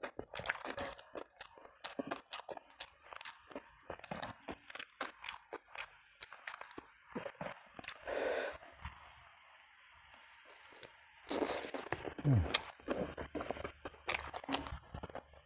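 Close-up chewing and crunching of a mouthful of food, with wet crackles and clicks, easing off for a couple of seconds in the middle. Near the end the chewing gets louder, with a brief low sound falling in pitch.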